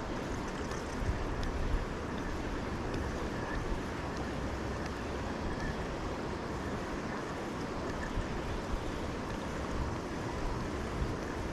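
Steady rushing noise of river water, mixed with wind buffeting the microphone.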